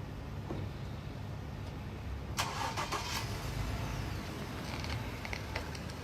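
Car engine running with a steady low rumble. About two and a half seconds in, a sudden loud noisy burst lasts about a second, followed by scattered clicks near the end.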